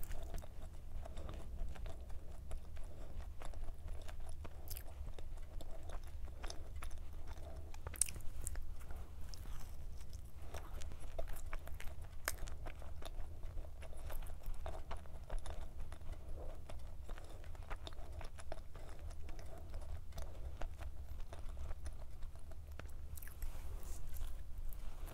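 Close-miked chewing and crunching of a flaky puff-pastry cube pie filled with vanilla cream, with many small crisp crackles of the pastry; a fresh bite near the end brings a denser burst of crunching.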